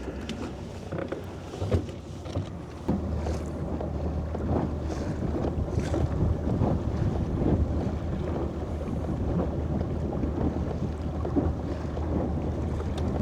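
Small boat under way: a steady low motor hum that picks up about three seconds in, with wind buffeting the microphone and a few light knocks.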